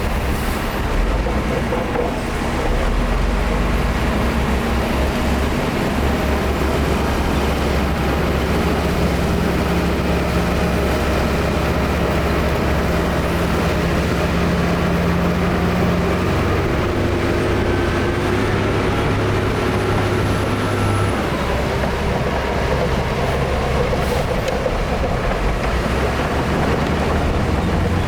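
Heavy diesel engine of earthmoving machinery, a bulldozer or dump truck, running hard under load, its engine note shifting a few times as the load changes.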